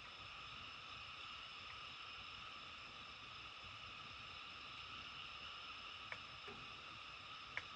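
Faint, steady chorus of distant calling animals in several high-pitched bands, with two brief ticks near the end.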